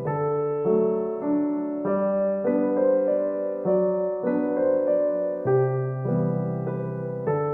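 Background music: soft piano or electric piano playing a slow melody of held notes over bass notes, changing about every half second to second.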